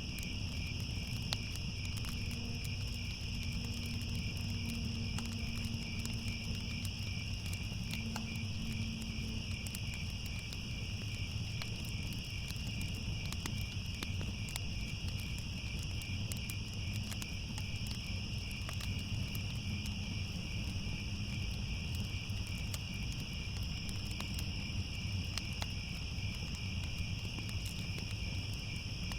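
Steady night chorus of insects trilling without a break, over faint scattered crackles of a fire and a low rumble.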